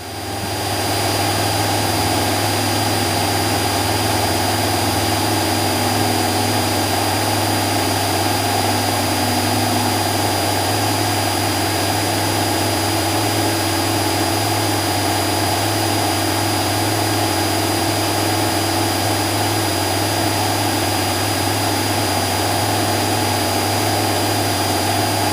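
Cessna 172SP's four-cylinder Lycoming engine and propeller droning steadily at climb power, heard inside the cockpit. The drone comes up over about the first second and then holds an unchanging pitch.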